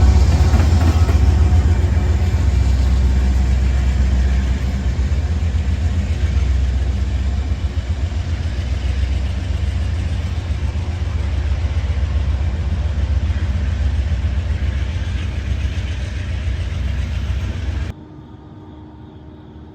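Diesel locomotive engines of a freight train running with a steady low drone that slowly fades, then cuts off abruptly near the end to quiet background.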